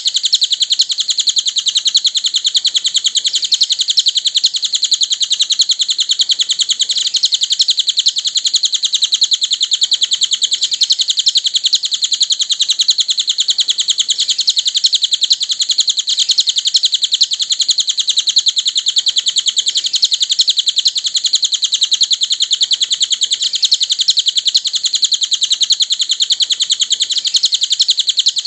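Cililin bird singing: a loud, unbroken stream of very rapid, high chirps.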